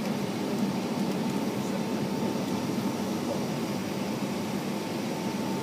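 Steady airliner cabin noise: a low, even hum of the jet engines and air-conditioning, with a faint thin whine held throughout.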